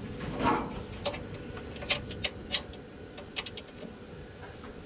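Scattered light metallic clicks and taps of hand tools and car parts being handled, with a short quick cluster of clicks a little past the middle.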